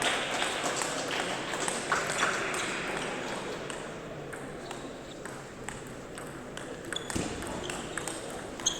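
Table tennis ball clicking against the table and bats: scattered short ticks, with a sharper ringing tick near the end, over a murmur of voices in the hall that fades after a few seconds.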